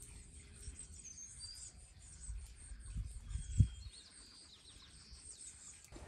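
Faint birdsong: scattered high chirps and a few short whistled notes from small birds over a low rumble, with a single dull thump about three and a half seconds in.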